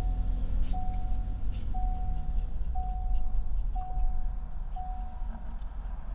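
An electronic beep at one steady pitch, repeating about once a second, six times, over a steady low vehicle rumble.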